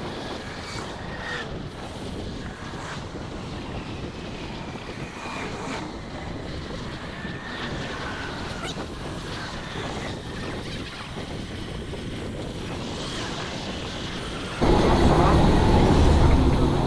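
Steady rush of wind and road noise on the microphone of a bike-mounted camera while cycling downhill. About fifteen seconds in it turns suddenly louder, with heavy low wind buffeting.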